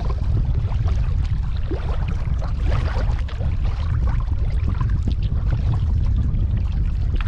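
Water splashing and trickling around a kayak as it is paddled, in small irregular splashes. Under it runs a steady low rumble of wind on the microphone.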